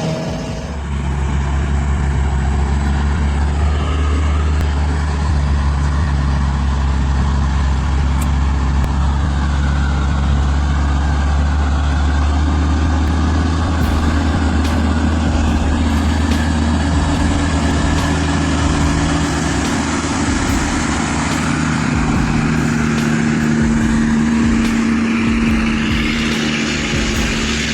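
Heavy vehicle engine running steadily with a deep, continuous drone.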